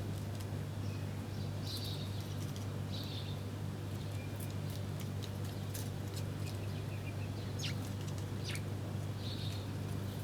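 Small birds chirping at a feeding spot: a few short chirps, two quick downward-sweeping calls near the end, and scattered brief ticks, over a steady low hum.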